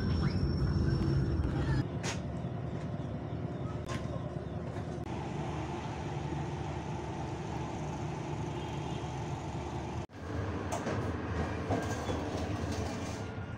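KA Serayu passenger train: the running rumble of the carriage, then, after abrupt cuts, the steady low hum of the train standing at a station platform.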